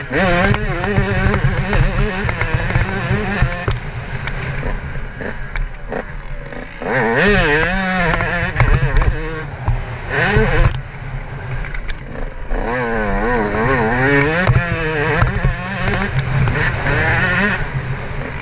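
Yamaha YZ125 two-stroke single-cylinder motocross engine being ridden hard, revving up and down over and over as the throttle opens and closes, its pitch rising and falling in quick swings.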